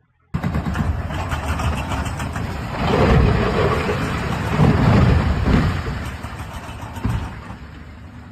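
A heavy truck engine runs with a rumble, swelling louder twice in the middle.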